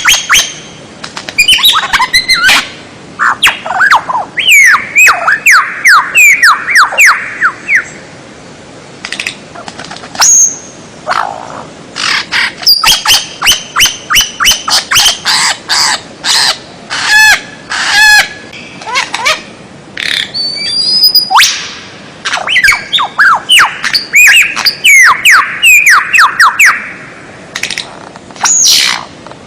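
Loud, varied songbird song in fast phrases: runs of quick downward-sweeping whistles, rapid repeated chips and trills, and sharp clicking notes, with brief pauses between phrases.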